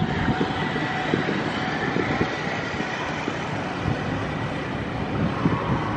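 Container freight train's wagons and brake van rolling along the track: a steady rumble of wheels on rail, with irregular knocks and clacks from the wheels.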